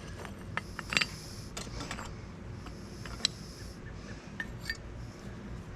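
Light clinks and taps of cast copper coins being knocked out of graphite molds, with short stretches of scraping in between.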